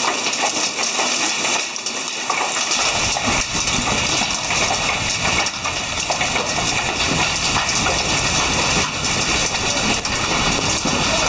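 Volcanic ash and grit raining down: a steady dense hiss of many tiny impacts.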